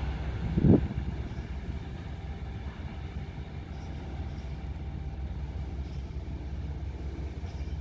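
Diesel rail vehicle's engine running steadily with a low rumble, with a short louder sound rising in pitch under a second in.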